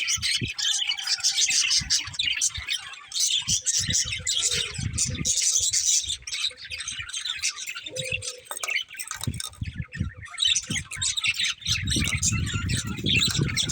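Budgerigars chirping and chattering in a fast, continuous warble, with a low rumbling noise underneath near the end.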